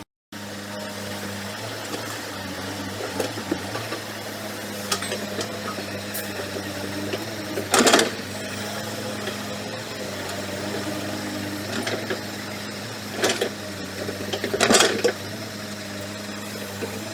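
Diesel engine of heavy earthmoving machinery running steadily under work, with three loud short bursts of noise over it about eight, thirteen and fifteen seconds in. The sound drops out for a moment at the very start.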